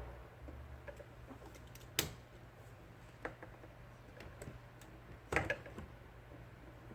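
A few sharp clicks and taps from hands and tools working on an IBM Selectric II typewriter's return-cable mechanism: one about two seconds in, a lighter one a second later and a short cluster near the end, over a low steady hum.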